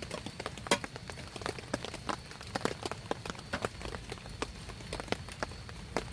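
Rain falling, with many separate drops tapping irregularly on a surface, a few of them louder, over a soft steady patter.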